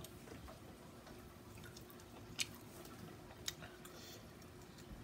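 Quiet chewing of a mouthful of fried chicken, with two small sharp mouth clicks, one about two and a half seconds in and one about a second later.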